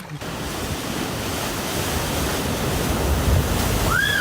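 Steady rushing noise of wind and surf, with the wind buffeting the microphone as a low rumble. Near the end comes one short call that rises and falls in pitch.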